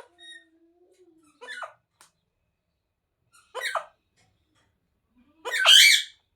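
Indian ringneck parrot giving three short, squeaky squawks a couple of seconds apart, the last the loudest.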